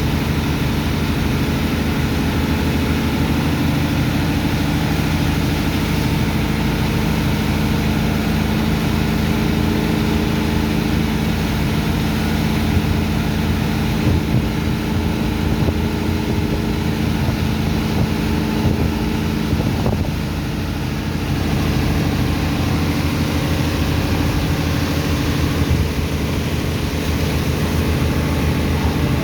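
Heavy engine of a sand-unloading dredge pump running steadily, with a brief dip in level about twenty seconds in.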